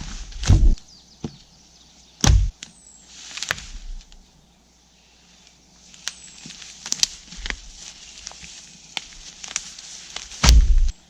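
Dry wood cracking and thumping as dead branches are broken and handled, with twigs crackling and snapping in between. The loudest thuds come about half a second in, a little after two seconds, and near the end.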